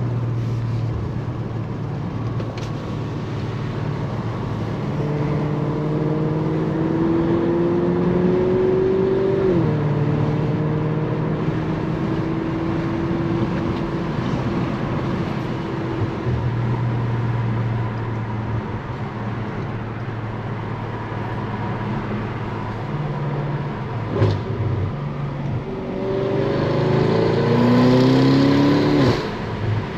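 Tuned 500 whp Audi S6 engine and exhaust heard from inside the cabin with the windows cracked, pulling through the gears. Engine pitch rises for a few seconds and drops at a shift, settles into a steady cruise, then climbs harder and louder near the end before falling at another shift.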